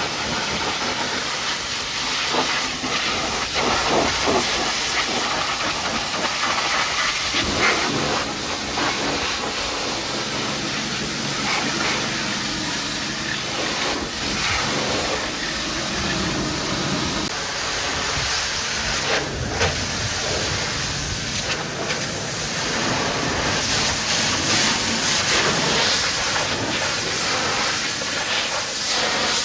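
High-pressure washer jet hissing steadily as it sprays water onto the truck, with a low hum from the washer's pump underneath and the spray noise swelling and fading as the jet moves.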